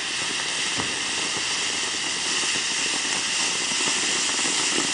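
Ground fountain firework spraying sparks: a steady hiss with faint scattered crackling.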